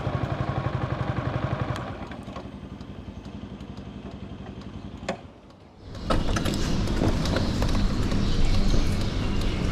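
Yamaha MT15's 155 cc single-cylinder engine running with an even pulse, dropping to a quieter, lower-load beat about two seconds in. About five seconds in there is a click and a short hush. Then a louder, rattly rushing noise takes over.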